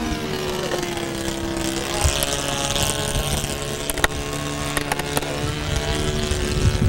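Radio-controlled model airplane's motor and propeller buzzing steadily in flight, its pitch dipping and rising slightly as it flies. A few sharp clicks come about halfway through.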